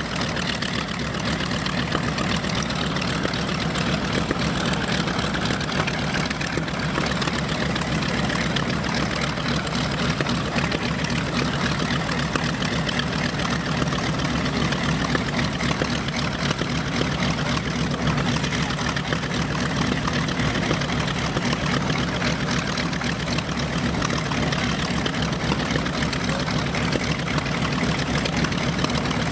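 B-25 Mitchell bomber's piston radial engines and propellers running steadily at an even, unchanging pitch.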